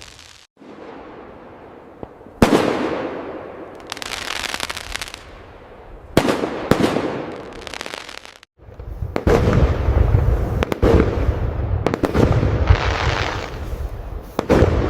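Fireworks display: sharp aerial bursts, each booming and fading into a crackling tail. They come singly at first, then as a denser barrage with deep rumbling booms from about nine seconds in.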